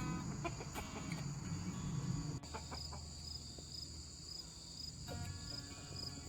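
Chickens clucking in short calls, over a steady high chirring of insects.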